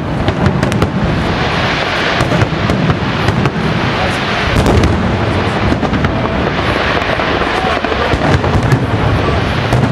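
Aerial fireworks display: a continuous barrage of booming shell bursts mixed with sharp crackling, with no pause.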